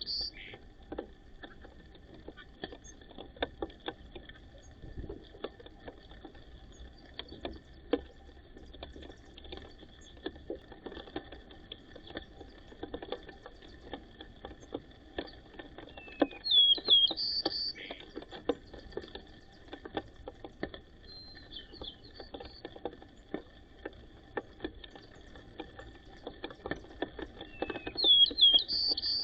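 White-crowned sparrow singing a short whistled song phrase about sixteen seconds in and again near the end, among many scattered light taps and clicks.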